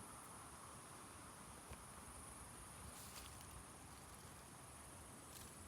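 Faint, steady high-pitched chirring of insects, with a couple of soft ticks.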